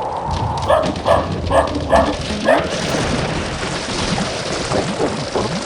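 A golden retriever barks five times in quick succession, then a steady hiss takes over.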